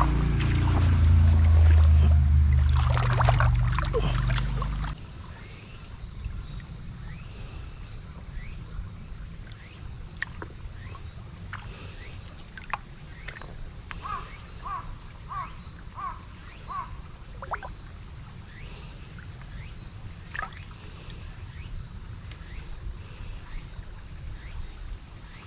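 Background music that stops abruptly about five seconds in. Then a clear mountain stream flows steadily, with scattered small clicks and splashes of water. About halfway through comes a quick run of five short chirps.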